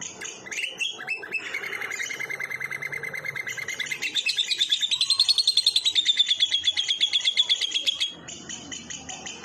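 Lovebird singing its 'ngekek' song: after a few short chirps, one long, fast rattling trill of about seven seconds, first lower, then higher and louder, that stops abruptly near the end, followed by softer chirps.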